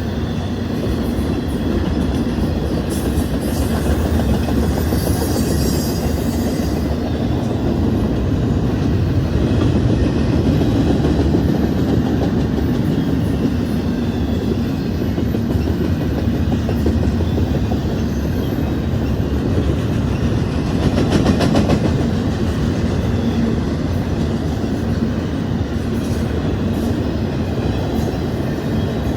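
Union Pacific train rolling past, its wheels on the rails making a steady rumble with a clickety-clack.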